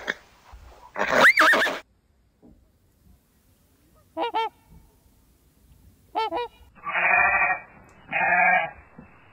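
A horse whinnies briefly about a second in. A swan then gives two short honks a couple of seconds apart. Near the end a sheep bleats twice.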